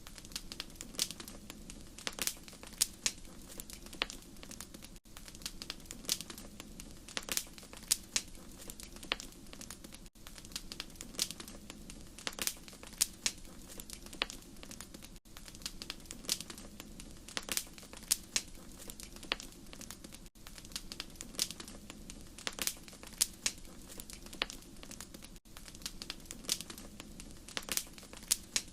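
Wood fire crackling in a fireplace: irregular sharp pops and snaps over a low, steady hiss, with a brief dip in level about every five seconds.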